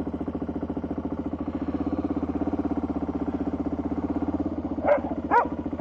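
Motorcycle engine idling with a steady, even pulse. A dog barks twice near the end.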